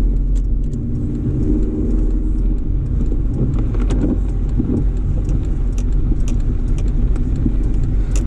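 Car driving: a steady low rumble of engine and road, with scattered light clicks over it.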